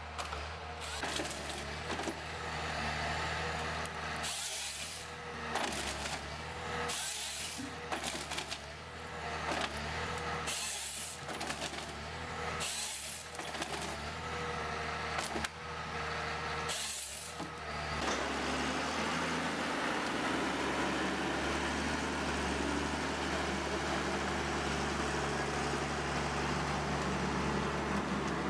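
A heavy machine's engine running steadily, with about ten short bursts of hissing noise every second or two; about two-thirds of the way in the bursts stop and a denser, steady machine noise takes over.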